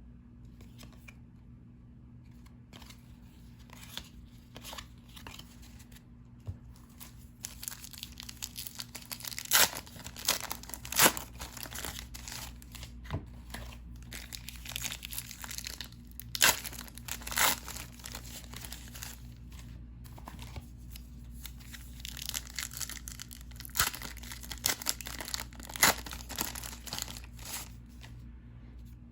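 Trading card packs being torn open and their wrappers crinkled, with cards handled in between. The handling is quiet at first, then crackly, with several short loud tearing and crumpling bursts.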